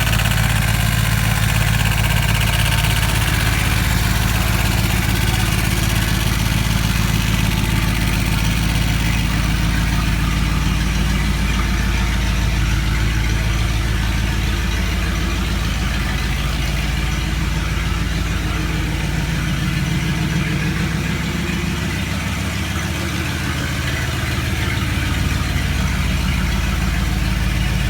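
1990 Dodge D150's 5.2-liter V8 idling steadily, its fan clutch rubbing against the shroud.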